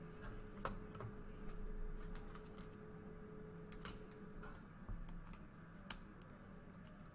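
Trading card being handled and fitted into a plastic sleeve: a few scattered light clicks and soft plastic rustles over a low steady hum.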